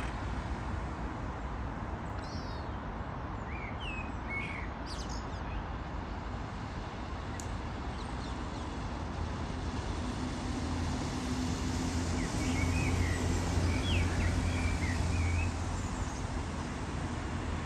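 Small birds chirping in short, scattered calls, in two clusters, over a steady background rush. A low, steady hum comes in about halfway and fades near the end.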